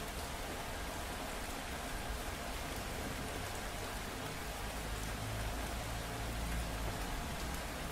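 Steady rain falling, with a low rumble swelling for a couple of seconds around the middle.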